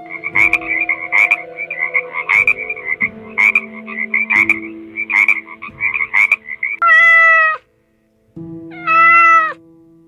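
A frog croaking in a fast run of short croaks, followed by a cat giving two long meows, the first about seven seconds in and the second about nine seconds in. Soft background music plays underneath.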